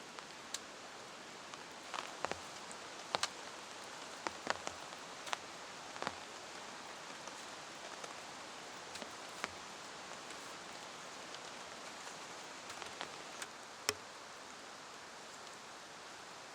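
Steady rain falling, with scattered sharp drips and taps, a few clustered together at times.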